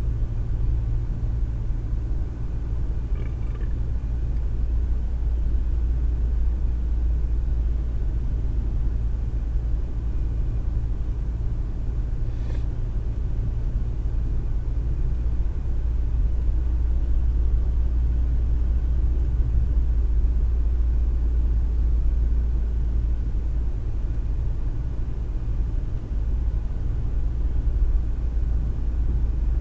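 Steady low rumble of a car driving, heard from inside the cabin through a windshield dash cam's microphone. There is one faint click about twelve seconds in.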